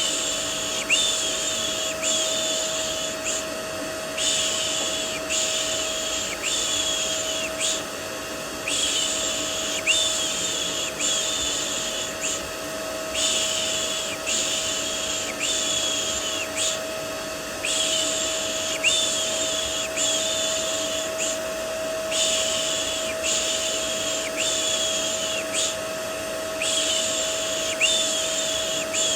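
Vacuum cleaner running steadily with a constant motor hum, mixed with a person's repeated "shh" shushing for soothing a baby. The shushes come as soft hisses of under a second each, in runs of about four, with short pauses between the runs.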